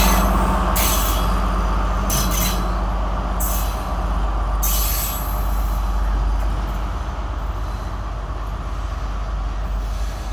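Sri Lanka Railways S14a and S8 diesel multiple unit pulling away, its wheels screeching in four short bursts during the first five seconds over a steady rumble and engine hum. The sound slowly fades as the train draws away.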